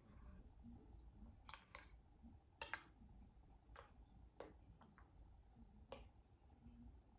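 Faint, scattered small clicks and taps, about eight of them at uneven intervals, over quiet room tone.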